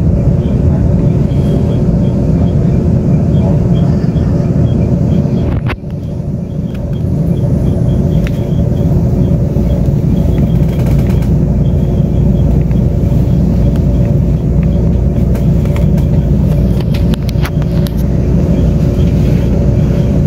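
Steady running rumble of a Taiwan Railway Tze-Chiang express train at speed, heard from inside the passenger car. A faint, regular high ticking runs through it, and the level dips briefly about six seconds in.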